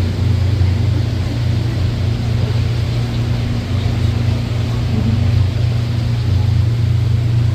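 Tour boat's engine running steadily under way, a constant low drone with a noisy rush over it.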